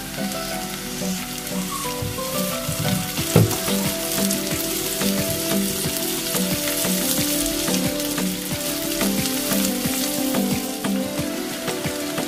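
Onions and bell pepper frying in hot oil in a stainless steel pan: a steady crackling sizzle, with one sharp knock about three seconds in.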